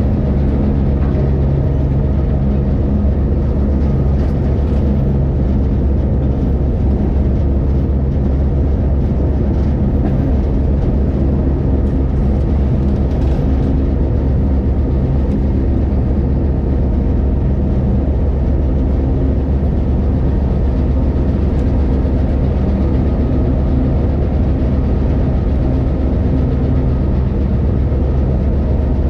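A train running along the track, heard from on board at its front: a steady, loud low rumble with an engine hum that wavers slightly in pitch.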